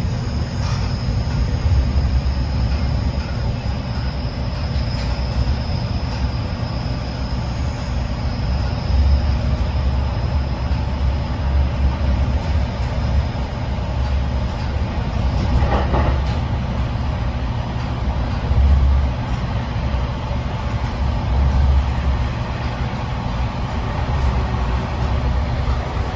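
Inside an NJ Transit Multilevel coach running on the rails: a steady low rumble of the wheels and car body. A faint high whine is heard over the first half, and there is a brief clack about 16 seconds in.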